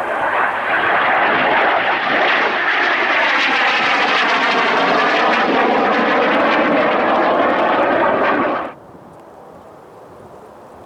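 Airliner passing close by with a loud engine roar and a sweeping, phasing tone as it goes over; the sound cuts off suddenly about eight and a half seconds in.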